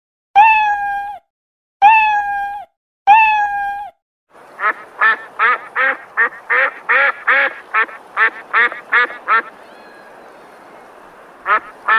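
A kitten meowing three times, each a steady pitched cry. About four seconds in, a fast run of waterfowl honks and quacks follows, about three calls a second for some five seconds, then a short lull and a few more calls near the end.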